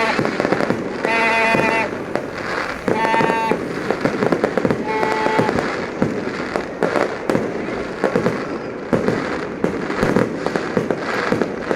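Fireworks going off in rapid succession, a dense run of bangs and crackling pops. Several short high-pitched tones sound in the first half.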